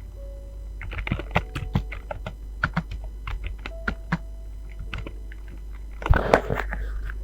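Typing on a computer keyboard: a run of quick key clicks starting about a second in, with a dense flurry of keystrokes near the end.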